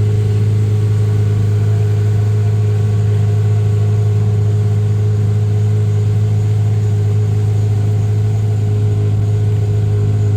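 A motor engine running at a steady speed, a loud, even low drone that does not change in pitch.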